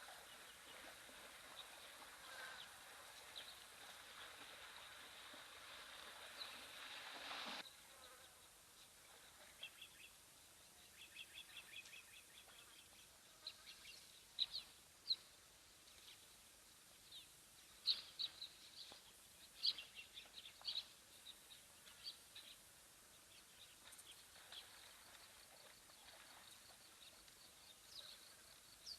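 Faint outdoor ambience with a buzzing insect close to the microphone for the first seven seconds or so; the buzz cuts off suddenly. Scattered short, high bird chirps follow.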